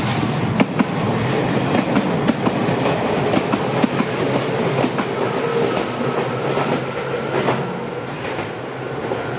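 Electric train of the Izuhakone Railway Sunzu Line passing over a level crossing at close range, its wheels clicking over the rail joints in a run of sharp clacks over a steady rumble.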